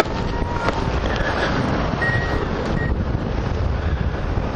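Airflow buffeting the microphone of a hang glider in flight: a steady, loud wind rush.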